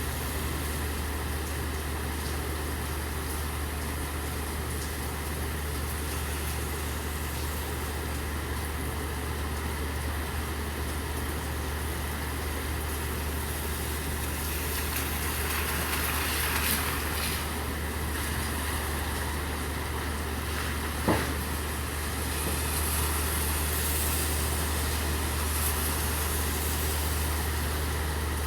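Steady rain with a constant low hum of an idling vehicle engine underneath. The rain hiss swells a little twice, and there is one sharp knock about three-quarters of the way through.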